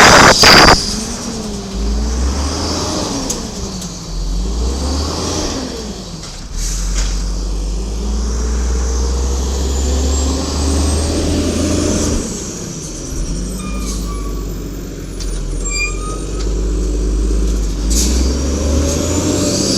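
Garbage truck's Cummins L10G natural-gas inline-six running, its pitch rising and falling several times over a heavy low rumble. It opens with a loud hiss of air-brake air.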